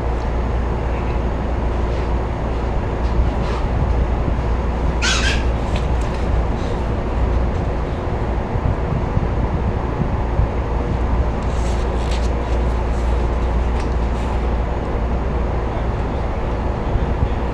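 Steady low hum and noise inside a stopped electric commuter train, from its onboard equipment, while it waits for a safety check before moving off. A few brief higher-pitched sounds come through, the strongest about five seconds in.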